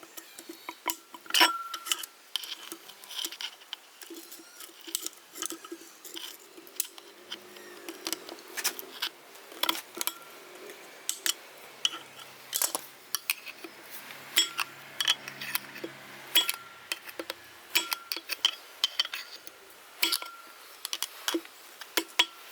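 Metal hand tools and machine parts clinking and knocking against each other in a long, irregular series of sharp strikes, some of which ring briefly.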